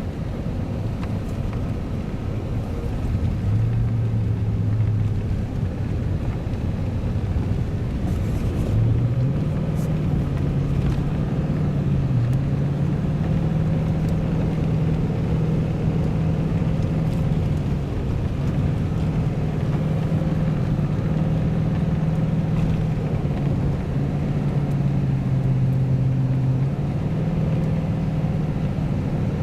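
A vehicle's engine running with a steady low rumble; its hum rises in pitch about nine seconds in and holds, dipping briefly now and then.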